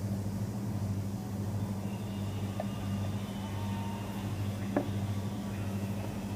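Steady low electric hum of a running machine, with a single sharp click about three-quarters of the way through.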